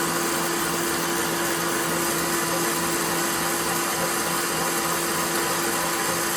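KitchenAid Professional 6000 HD stand mixer, with its DC motor, running steadily with its wire whisk whipping cream and condensed milk into an ice cream base: a constant motor hum and whir.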